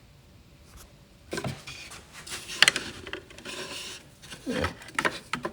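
Wooden pieces being handled in a wooden toolbox, knocking and rubbing against each other. After a quiet start there is a sharp click about two and a half seconds in, then scraping, then two dull knocks near the end.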